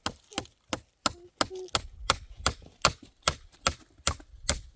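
A tool striking wood in quick, steady blows, about two or three a second. The blows land heavier and deeper from about two seconds in.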